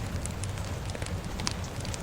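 Fire crackling with scattered sharp pops over a steady low rumble of rain.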